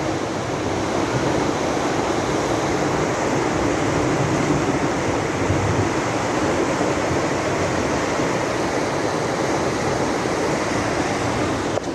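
Floodwater rushing, a steady even noise that does not let up.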